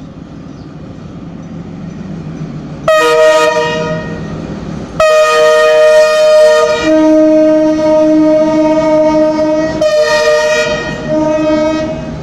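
Diesel locomotive's multi-tone air horn: a short blast about three seconds in, then a long, loud blast from about five seconds in whose chord shifts partway through and is sounded again near ten seconds, over the low rumble of the idling train.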